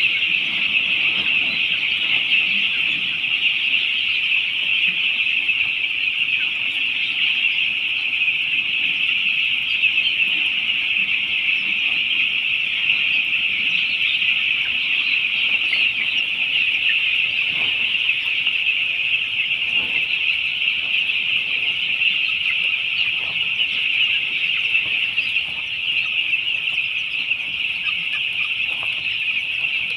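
A large flock of young chicks peeping continuously, many high chirps overlapping into a steady chorus.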